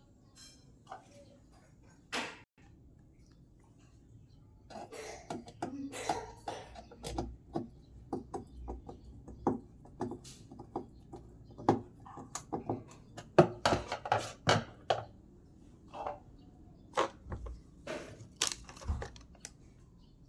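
Irregular clicks, knocks and clatter of hard parts being handled and fitted while a twin-tub washing machine is serviced, thickest from about five seconds in.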